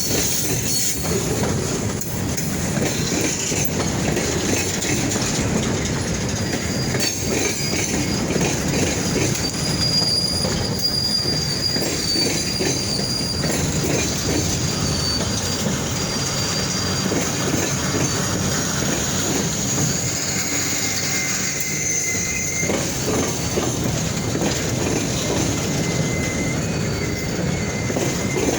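Train cars rolling slowly around a switch curve at yard speed, about 10 miles an hour, with a steady rumble. The wheels squeal against the rails: a high whine about a third of the way in, and a lower one from about three quarters through to the end.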